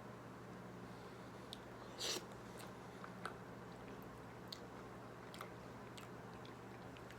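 A person eating ripe pawpaw fruit: soft chewing with small wet mouth clicks, and one louder, brief bite or slurp about two seconds in.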